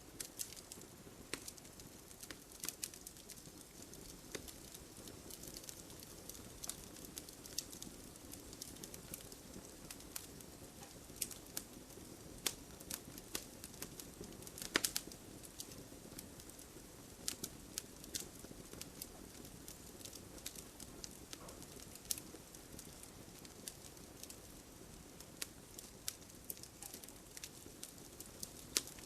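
Wood fire crackling in a fireplace: irregular sharp pops and snaps over a low, steady hiss of the flames, with one louder pop about halfway through.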